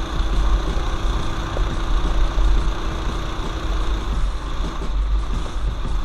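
Small single-cylinder four-stroke mini bike engine running on a trail ride, with a heavy low rumble throughout; its steady engine note fades about four seconds in.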